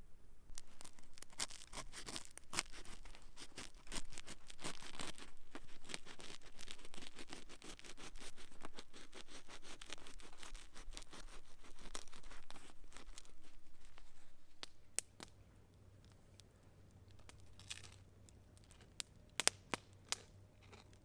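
Campfire crackling with a dense run of sharp pops and snaps. About fifteen seconds in it turns much quieter, with only a few scattered clicks.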